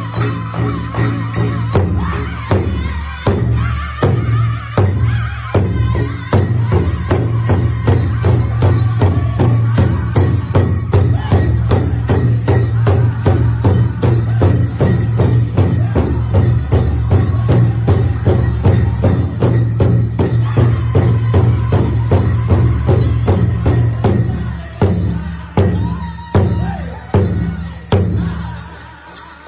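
Powwow drum group playing a song: a large shared drum struck in a fast, even beat, with high singing voices and a steady jingling over it. Near the end the beat breaks into a few separate hard strokes and the song stops.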